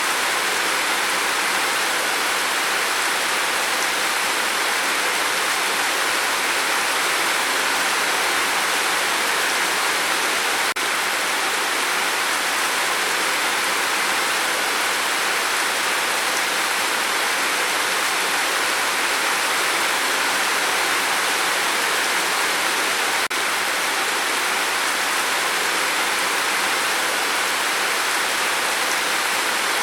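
Steady rain falling, an even unbroken hiss, with two very brief dips in level partway through.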